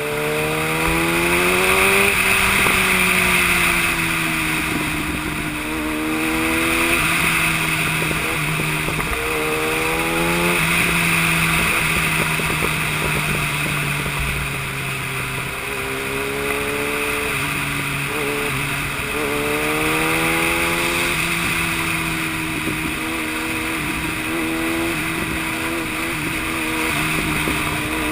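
Yamaha YZF-R1 inline-four sportbike engine pulling hard, its pitch climbing and then dropping sharply at each gear change, several times over, with a steady rush of wind.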